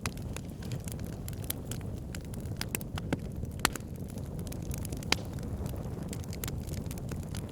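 Wood fire crackling: irregular sharp pops and snaps over a steady low rumble of the burning, with a couple of louder snaps about halfway through.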